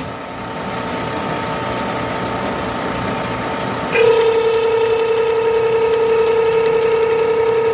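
Machine tool running as a hollow mill cuts a workpiece down in diameter; about four seconds in a louder, steady high-pitched tone sets in and holds.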